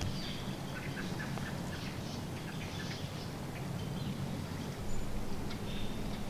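Birds chirping and calling with short, scattered notes, over a low steady hum.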